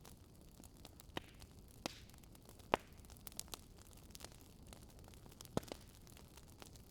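Campfire crackling: irregular sharp pops and snaps of burning wood over a low steady hiss, the loudest pop about three seconds in.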